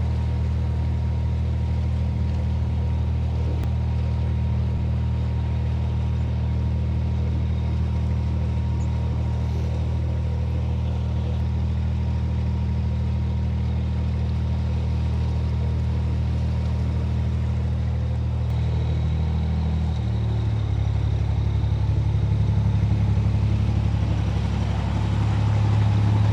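Narrowboat's inboard diesel engine running steadily at cruising speed, a deep even hum. About three-quarters of the way through, the engine note shifts up a little and grows slightly louder as the throttle is opened.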